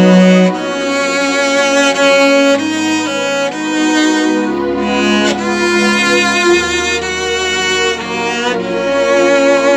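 Slow music for bowed strings: sustained chords of violin and cello that change every second or two.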